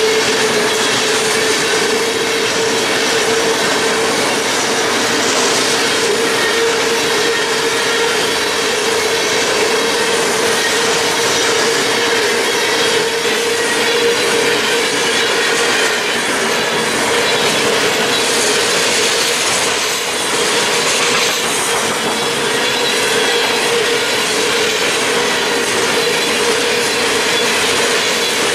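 A freight train of steel open-top hopper cars rolling by: a steady rumble and clatter of wheels on the rails, with a continuous squealing tone from the wheels.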